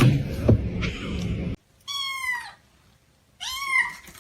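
A cat meowing twice, two short high-pitched meows about a second and a half apart, the first falling in pitch and the second rising then falling. They follow a second and a half of low rumbling noise.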